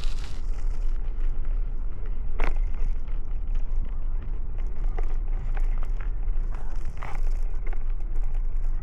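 Riding noise from a moving bicycle: a steady low rumble of wind and road noise with scattered small clicks and rattles, and two sharper ticks, one about two and a half seconds in and another about seven seconds in.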